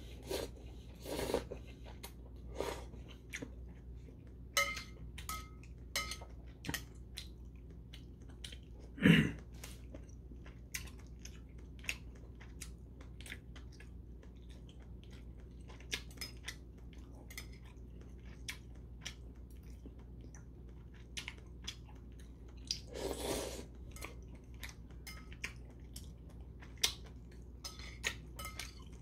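A person chewing a mouthful of spicy mixed noodles with whelk and shiitake mushrooms, heard close up as a steady run of small wet mouth clicks. Two louder, longer eating sounds come about nine seconds in and again around twenty-three seconds.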